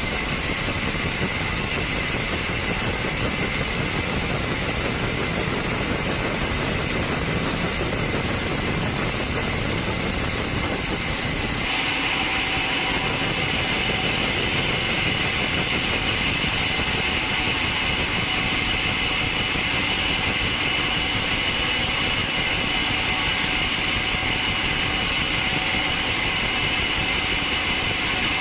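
Sawmill machinery running steadily with a high whine; the tone of the whine changes abruptly about twelve seconds in.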